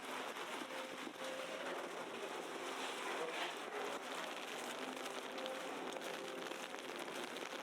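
Steady wet hiss of heavy snow falling and dripping on a city street, with faint tones and murmur in the background.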